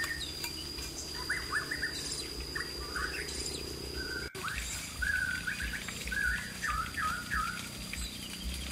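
Small birds chirping: many short, quick chirps repeated throughout, over a steady thin high-pitched tone.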